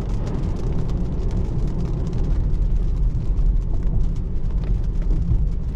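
Steady road and tyre noise inside the cabin of a 2024 Tesla Model 3 Long Range (an electric car, so no engine note) driving on wet roads in the rain, heaviest in the low rumble, with faint ticks throughout.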